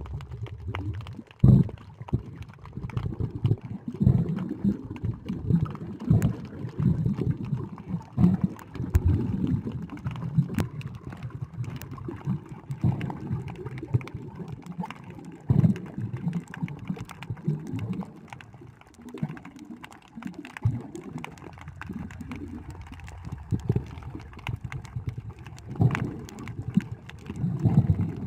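Muffled water sloshing and gurgling, heard underwater, in an uneven low rumble with scattered sharp clicks.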